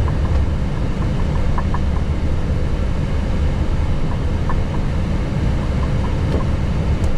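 Steady low rumble inside an Airbus A321neo cockpit on the ground with the engines running at idle.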